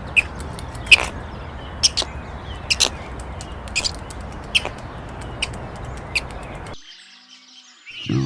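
A bird chirping: short, sharp chirps about once a second over a steady low background noise, which stops near the end.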